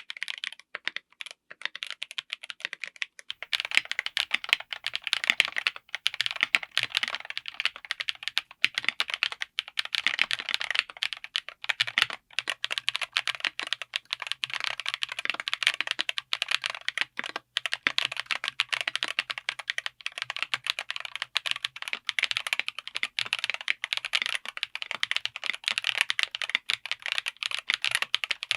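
Mechanical keyboard fitted with tactile switches being typed on, keystroke clacks, a few separate strokes at first and then rapid continuous typing from about three seconds in.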